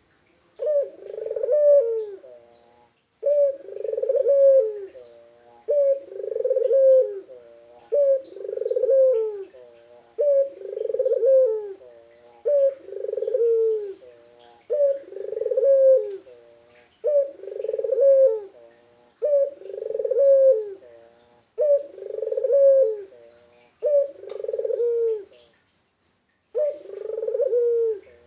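Puter dove (Barbary dove) cooing over and over: a low, repeated coo about every two seconds, about a dozen in a row, with a short break near the end before it starts again.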